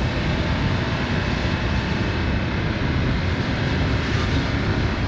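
Motorcycle on the move: steady engine and wind noise on the rider's microphone.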